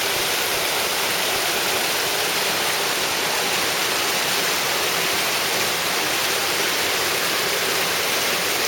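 Creek water rushing steadily over rocks, a loud, even, unbroken rush.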